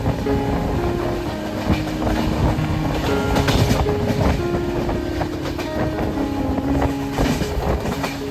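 Indian Railways passenger train running on the rails: a steady rumble with wheels clattering irregularly over the track.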